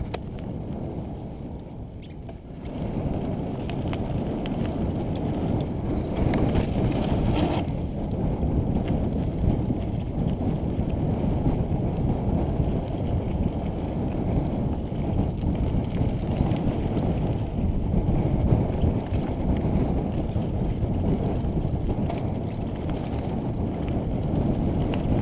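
Mountain bike ride on a dirt trail: a steady rumble of wind on the camera's microphone mixed with tyres rolling over dirt, building about two and a half seconds in.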